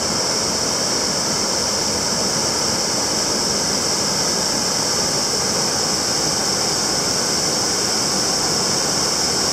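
Waterfall pouring steadily: an even rushing noise, with a steady high hiss over it.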